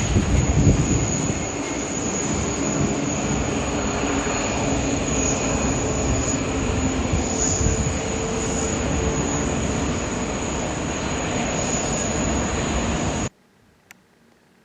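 Jet airliner engines running loud and steady, with a thin high-pitched whine over the rush; the sound cuts off suddenly about 13 seconds in.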